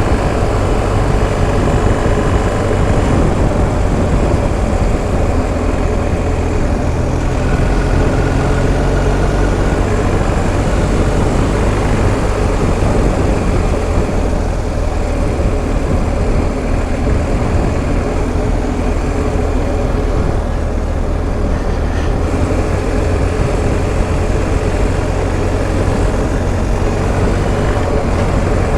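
BMW R1250 GS Adventure's boxer-twin engine running steadily while the motorcycle rides along at an even pace.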